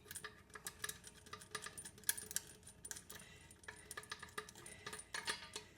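Light, irregular metallic clicks and clinks as a loosened rusty toilet tank bolt, its washer and the socket wrench are handled.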